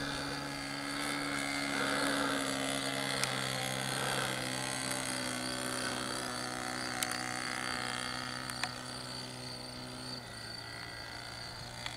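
Nitro glow engine of a 1.73 m RC Cessna 177 Cardinal model plane droning steadily in flight, its pitch shifting slightly as it flies. It grows a little fainter near the end.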